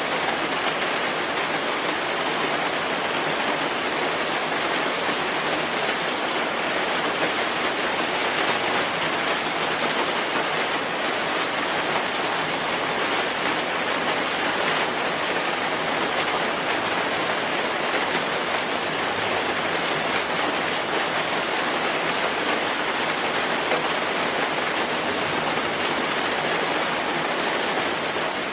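Steady rainfall: an even, dense hiss of rain with faint scattered drop ticks.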